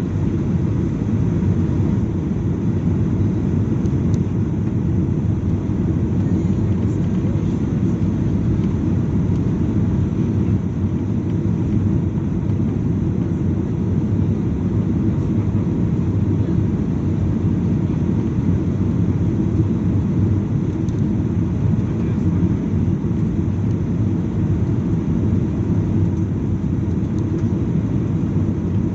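Steady roar of a Boeing 737-800 airliner's engines and airflow heard inside the passenger cabin, an even low rumble that does not change.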